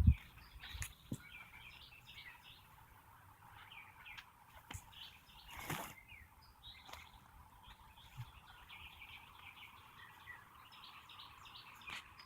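Small birds chirping and twittering in short, scattered calls throughout, faint and at a distance. About six seconds in there is one brief rustle or knock.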